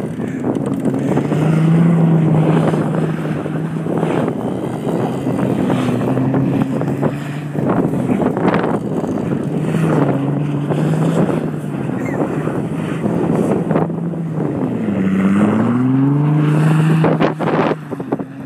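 Audi B5 S4's twin-turbo 2.7-litre V6 revving hard as the all-wheel-drive car spins donuts in snow, its pitch rising and falling, with a deep drop and climb back up about three-quarters of the way through. Wind buffets the microphone.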